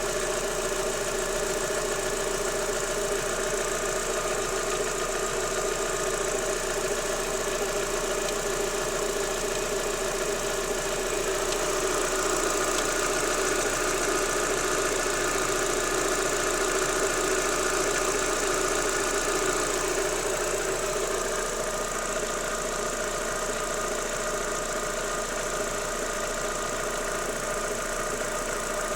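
Daewoo Lanos 1.6 16V four-cylinder engine running steadily with a knock, a little louder for several seconds in the middle. The knock goes away when the timing belt and rollers are wetted with water and was cured by replacing the timing belt and rollers, so it comes from the timing belt drive.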